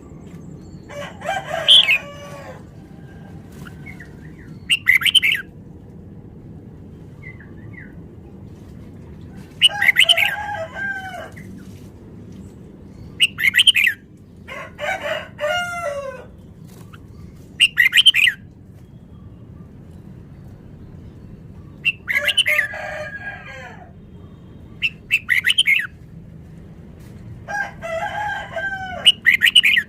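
Red-whiskered bulbul singing: about nine short, quick phrases of gliding, warbling notes, a few seconds apart, over a steady low background hum.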